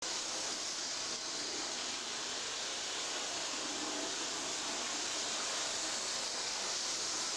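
A 00 gauge model train running at full speed around its layout, giving a steady whirring, rushing noise.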